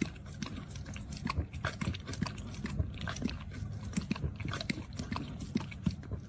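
A pet chewing, with irregular crunching clicks.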